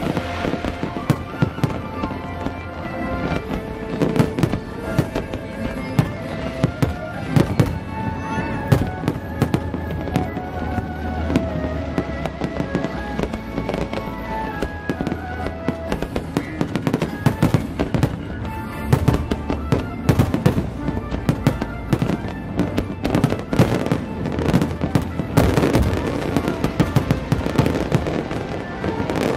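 Fireworks shells bursting in a rapid, irregular string of bangs and crackles, with music playing underneath.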